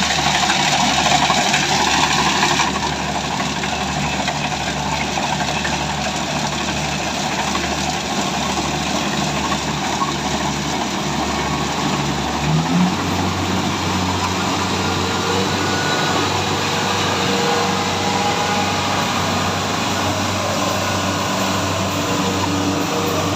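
Engine of a harvesting machine running steadily, with a mechanical clatter over it; about halfway through it speeds up to a higher pitch and holds there.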